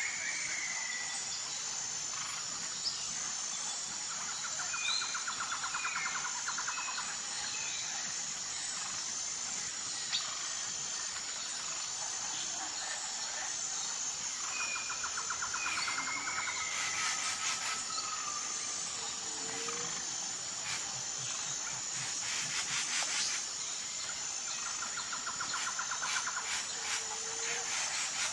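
Steady high-pitched insect chorus with birds calling now and then over it, including a rapid trill that comes three times.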